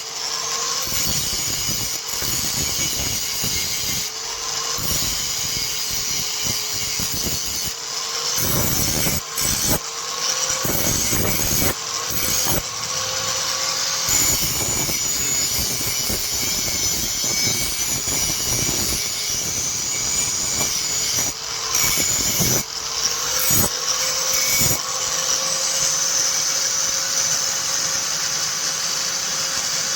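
Electric grinder running steadily on steel, with a whining tone that dips and recovers repeatedly and a hiss of grinding, broken by occasional sharp knocks.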